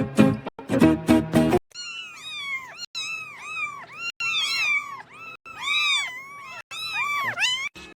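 Music for the first second and a half, then a cat meowing over and over in short, high calls that rise and fall, about two or three a second.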